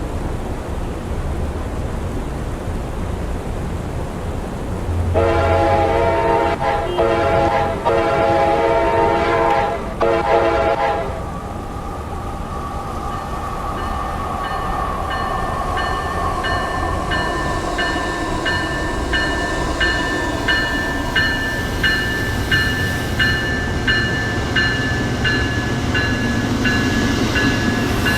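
Amtrak passenger train sounding its horn in about four blasts, the last ones close together, then running past with a slowly falling tone and a regular high pulsing about once a second over the rumble of the train.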